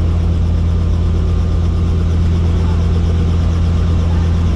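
Helicopter running steadily, a loud constant low drone of rotor and engine.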